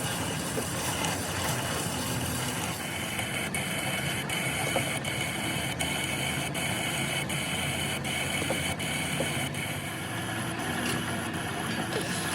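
An engine running steadily at idle, with faint regular ticks about every three-quarters of a second through the middle stretch.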